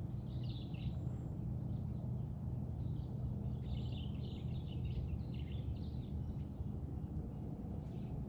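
Small birds chirping in short twittering phrases, most busily in the first second and again from about three and a half to six seconds in, over a steady low hum.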